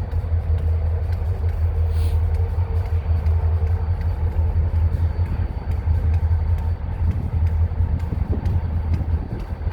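An engine idling: a steady low rumble throughout.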